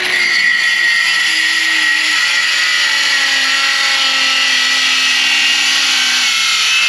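Milwaukee M12 cordless circular saw with a Diablo demolition blade cutting through a treated 2x4. The motor gives a steady whine whose pitch sags slowly as the blade works under load.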